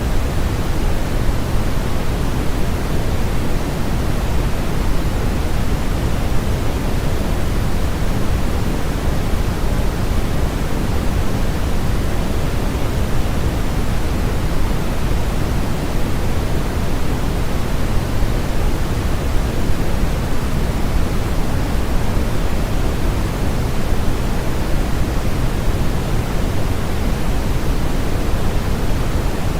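Steady synthetic noise from a sleep-aid noise track: an even, unchanging hiss with most of its weight in the bass, so it sounds deeper and softer than pure white noise.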